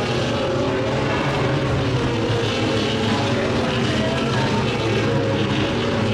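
Racing superbike engines running at high revs, a steady layered engine note that holds nearly level in pitch.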